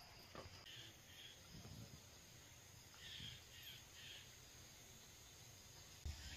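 Near silence with faint bird calls: a few short chirps about a second in, and another group around three seconds in.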